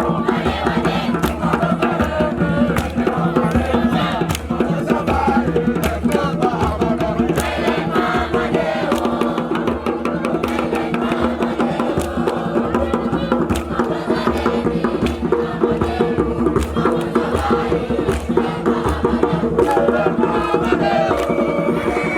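Music: a group of voices chanting and singing over continuous drumming.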